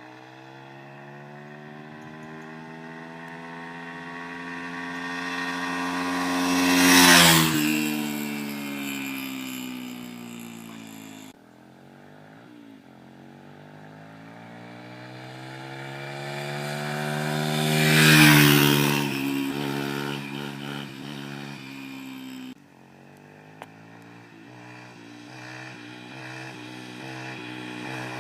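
Dirt bike engine riding past twice: each time the engine note grows louder as it approaches, drops in pitch as it goes by, and fades away. The sound breaks off abruptly twice, and a third approach is building near the end.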